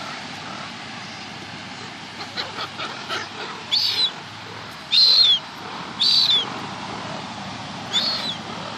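Seagulls calling: a few short sharp calls, then four loud squawks spaced about a second apart in the second half, the second of them the loudest.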